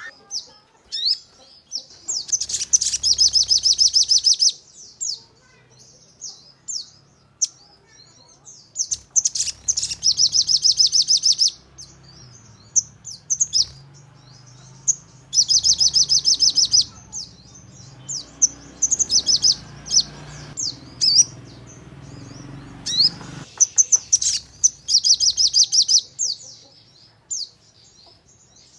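Sogon song: four bursts of fast, dense, high-pitched rattling trills, each about two seconds long, spaced by scattered sharp chirps and quick whistled glides. This is the rapid 'nembak' delivery used as lure audio to provoke a caged sogon into singing.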